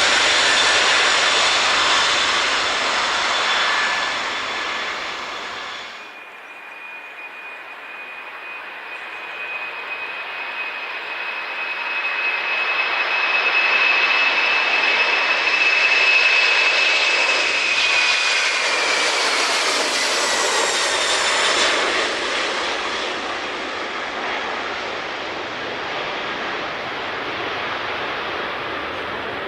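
Four-engine jumbo jet's engines at takeoff power, the roar with a high whine. About six seconds in the sound cuts to another departure: the roar and a steady whine build, peak mid-way, then the whine drops in pitch as the aircraft passes and the roar slowly fades.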